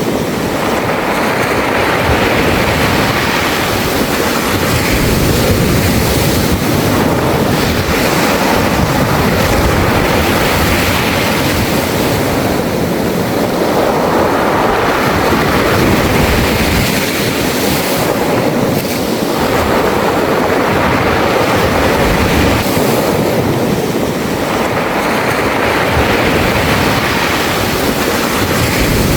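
Sea waves washing over a beach of smooth round pebbles, the water rolling and rattling the stones, in a steady wash that swells about every five to six seconds.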